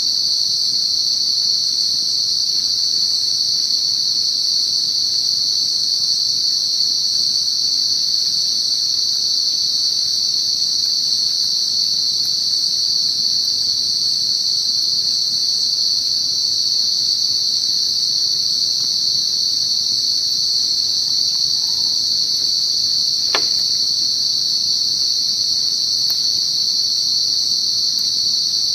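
Night insect chorus making a loud, steady high-pitched drone without a break, with a single sharp click about 23 seconds in.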